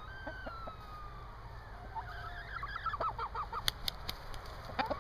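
Hens clucking: one drawn-out call that falls slightly in pitch, then a quick run of short clucks starting about two seconds in. Wind rumbles on the microphone throughout, and a few sharp clicks come near the end.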